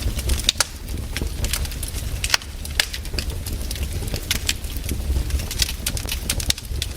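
Wood fire crackling in a fireplace: irregular sharp pops and snaps, several each second, over a steady low rumble.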